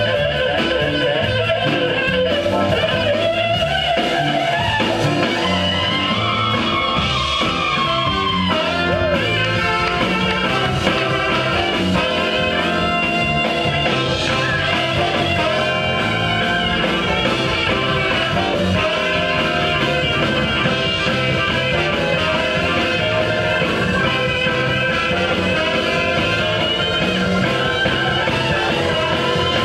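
A band playing, with guitar and singing, loud and steady throughout.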